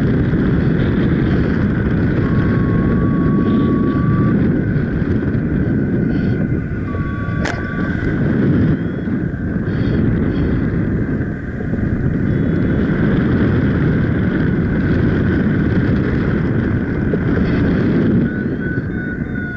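Strong gusting wind buffeting the microphone of a paraglider pilot in flight, a steady loud rush that swells and dips. The wind is blowing hard enough to push the glider backwards. A faint thin steady tone sounds twice in the first half.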